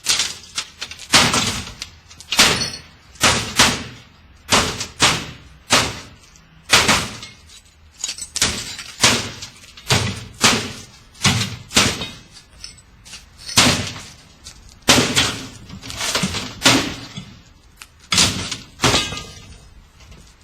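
A washing machine being struck again and again: heavy, irregular blows about once a second, each with a short ringing decay.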